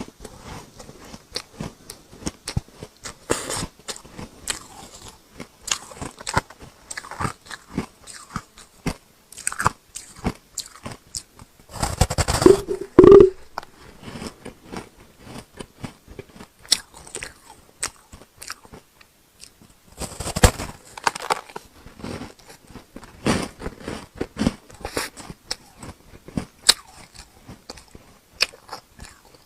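Hard ice chunks bitten and crunched between the teeth close to the microphone: a string of irregular sharp cracks and crunches, with a louder, denser spell of crunching about twelve seconds in and another around twenty seconds in.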